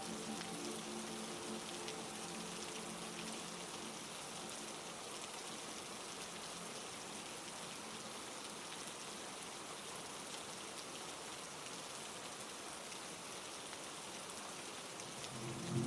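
Heavy rain falling steadily, an even hiss with no breaks. Faint held music tones fade out in the first few seconds, and a louder pad comes in right at the end.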